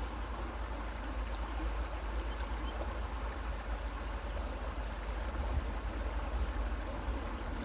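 A creek flowing over stones with a steady rushing babble. A constant low rumble sits underneath.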